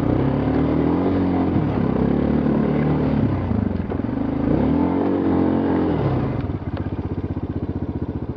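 ATV engine in low gear revving up and down several times, then dropping back to a steady idle about six and a half seconds in.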